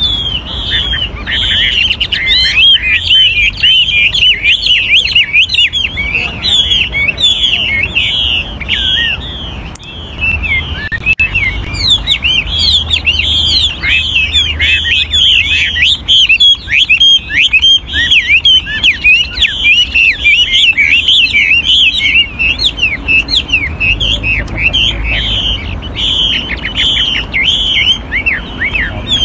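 Chinese hwamei (melodious laughingthrush) singing a continuous run of quick, varied whistled phrases that rise and fall in pitch, with a brief lull about a third of the way through. This is the full song of a mature wild-caught decoy bird.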